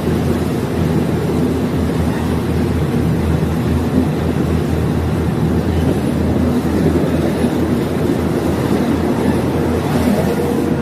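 Diesel multiple unit train running, heard from on board: a steady low diesel engine hum over the rumble of the ride.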